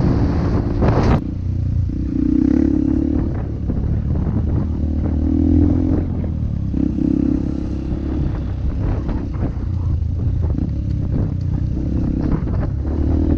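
Honda 150 cc single-cylinder four-stroke trail motorcycle engine running, its note rising and falling every couple of seconds with the throttle.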